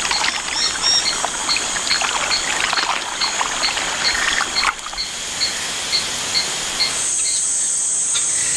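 Rainforest ambience: a steady high insect drone that grows louder near the end, a small high chirp repeated two to three times a second, and scattered crackling and rustling in the first half.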